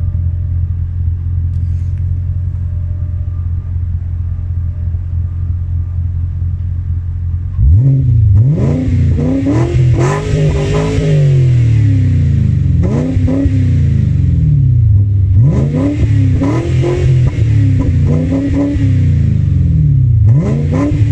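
Volvo V8 engine through a quad exhaust, idling steadily at first, then revved about a quarter of the way in and blipped up and down several more times.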